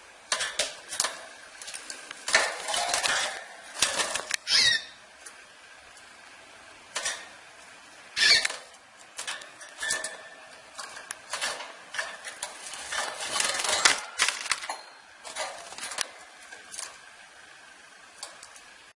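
Gloster canary moving about its cage: irregular wing flutters and small clicks and clinks against perches and bars, with a few brief high chirps.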